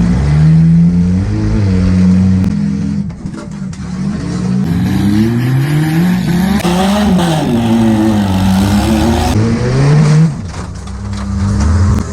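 Demolition derby car engines revving hard, their pitch climbing and dropping again and again, with a harsher noisy stretch partway through.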